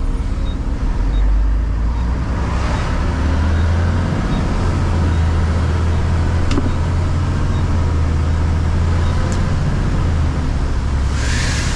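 Diesel truck engine running steadily, heard from inside the cab while driving, with a short hiss near the end.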